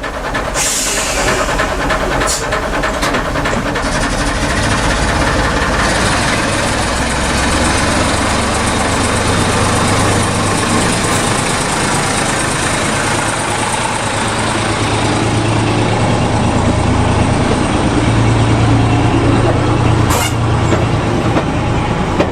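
A train running past, a steady rumble and rail noise with a low engine drone that grows louder in the second half, and a couple of sharp clicks from the wheels.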